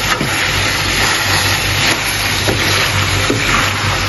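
Chicken pieces and chopped tomatoes sizzling and frying in a metal kadhai on a gas stove, a steady hiss over a low hum. A few faint knocks come from the pan being stirred.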